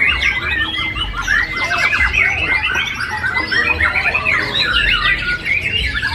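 Dense, overlapping song of several caged songbirds singing at once, white-rumped shama (murai batu) among them: rapid chirps, trills and whistled glides without a break, over a low rumble.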